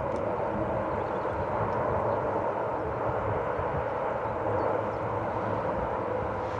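Military aircraft in flight overhead, a steady engine drone that holds at an even level.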